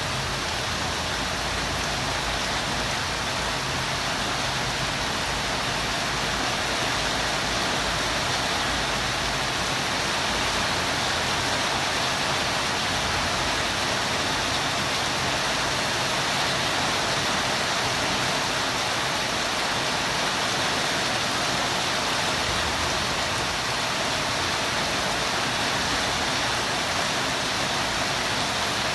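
Steady rain falling, an even hiss of noise with no thunder or other events.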